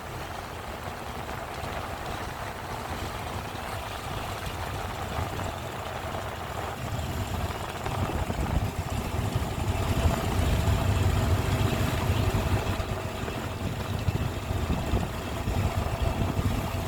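A boat's engine running steadily as a low rumble, growing louder about eight seconds in, with a faint steady hum above it.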